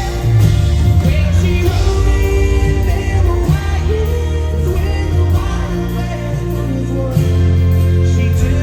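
Loud live country band music: amplified band with heavy bass, and singing over it.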